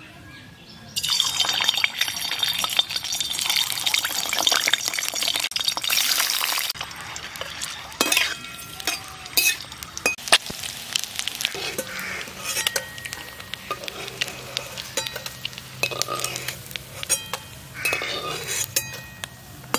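Peeled hard-boiled eggs going into hot mustard oil in an aluminium karahi: a loud, even sizzle starts about a second in and lasts some five seconds. Then a quieter frying sizzle follows, with the metal spatula clinking and scraping against the pan.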